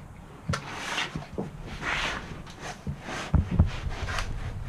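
A sheet of butyl sound-deadening mat being handled, its paper backing rustling and crinkling, with a few short knocks against the bare metal van body.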